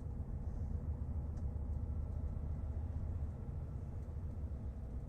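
Steady low rumble of an idling lorry engine.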